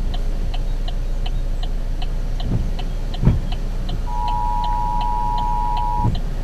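Car turn-signal (indicator) clicking steadily at about three clicks a second over the low rumble of the vehicle, with a couple of dull thumps. A steady electronic beep tone sounds for about two seconds near the end.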